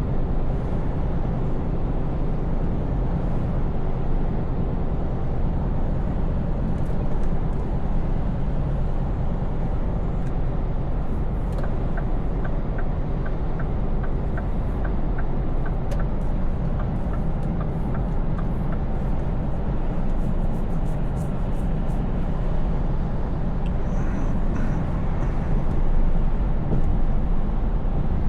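Scania V8 diesel truck engine and road noise heard inside the cab while cruising, a steady low drone. About halfway through, a run of quick, regular light ticks lasts several seconds.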